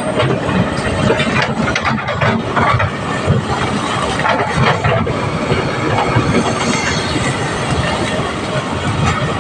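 Kobelco excavator working: its diesel engine runs steadily under a continual irregular clatter of metal knocks.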